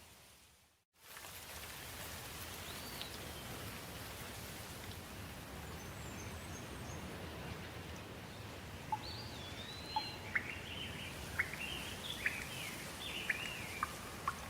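Steady rain with songbirds calling. The sound drops out briefly just under a second in; a lone arching call follows a couple of seconds later, and in the second half the birds break into a busy run of chirps and sharp chips.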